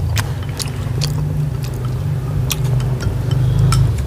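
People chewing and biting food, with scattered short clicks, over a steady low rumble.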